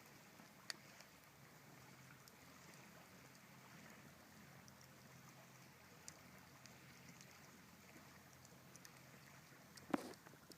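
Campfire burning quietly, with scattered faint crackles, a sharp click about a second in and a louder pop near the end.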